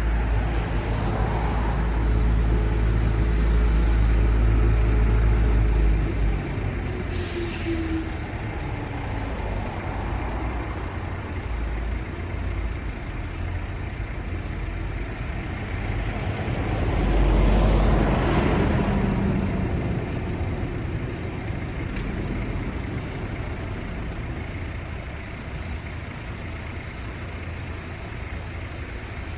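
City street traffic. A heavy vehicle's engine rumbles close by for the first six seconds, a short sharp hiss comes about seven seconds in, and another vehicle passes louder around eighteen seconds, over steady road noise.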